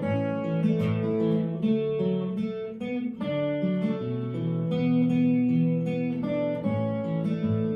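Instrumental music: acoustic guitar strumming chords, with no singing.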